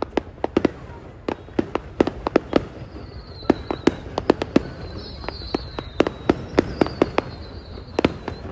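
Fireworks going off: a rapid, irregular series of sharp bangs, several a second, with a faint high thin whistle running through the middle.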